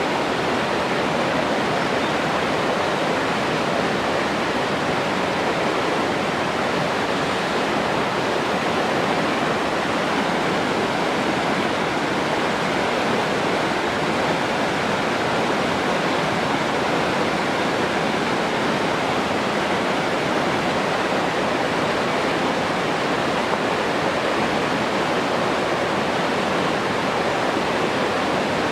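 Rushing water, a steady even rush with no breaks or separate splashes.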